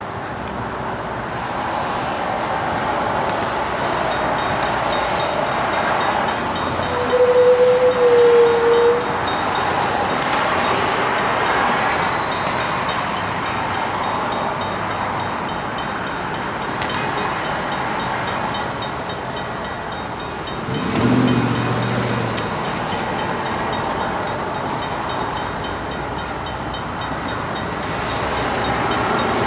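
Canadian Pacific diesel-hauled container train approaching: a steady rumble and hiss of the locomotives and rolling cars, with a fast even ringing from about four seconds in. A single steady horn-like tone sounds for about two seconds, around seven seconds in and louder than anything else, and a shorter pitched sound comes around twenty-one seconds in.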